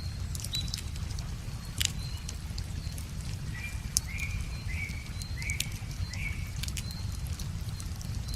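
Wood fire crackling, with irregular sharp pops, over a low steady rumble. Small birds call throughout: a short high note repeated about twice a second, and a run of four short chirps in the middle.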